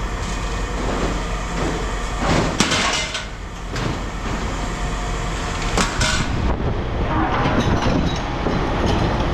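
A steady low engine or machinery rumble, with scrap metal clanking and clattering several times as it is handled, loudest a little over two seconds in and again around six seconds in.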